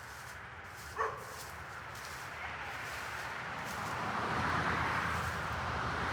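A single short animal call, like a yip, falling in pitch about a second in, over a steady rushing noise that grows louder through the second half.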